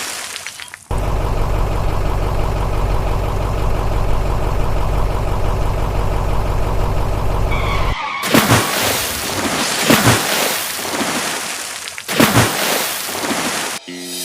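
Vehicle engine running steadily, a low even hum, for about seven seconds. It then gives way to a loud, rough rushing noise that rises and falls in surges.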